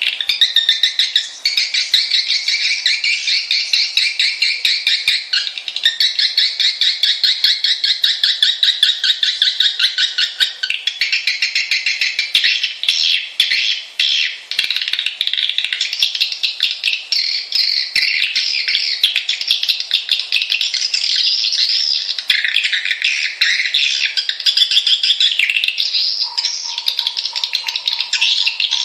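Swiftlets twittering: a dense, continuous chatter of rapid high chirps, the kind of call played to lure swiftlets to roost in a swiftlet house. A steady tone joins underneath near the end.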